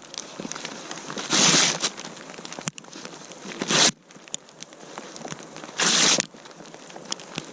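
Paper being torn for fire tinder: three short rips, about two seconds apart, with faint crackles and clicks between.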